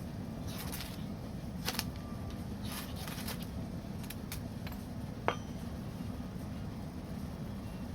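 Wood fire crackling, with irregular sharp pops over a steady low rumble, the loudest pop about five seconds in.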